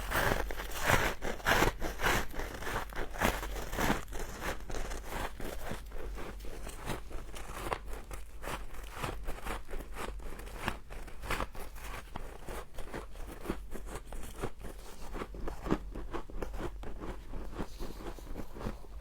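Close-up crunching of humidifier frost being bitten and chewed: a rapid run of sharp crunches, louder over the first few seconds, then a steady stream of smaller crunches.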